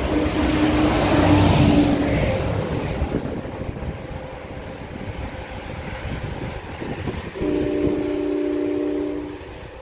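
NJ Transit ALP-45DP locomotive passing close as the train pulls away under diesel power, loudest in the first two seconds with a steady engine tone, then fading into rumble and rail clatter. About seven and a half seconds in, a multi-note train horn sounds for about two seconds.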